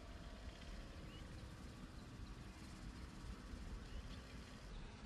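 Faint rural outdoor ambience: a few short, thin bird chirps, more of them near the end, over a low steady rumble.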